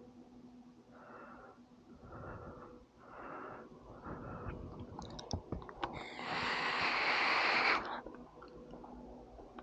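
Soft breaths close to the microphone over a faint steady hum, then a few clicks and a loud hiss lasting about two seconds.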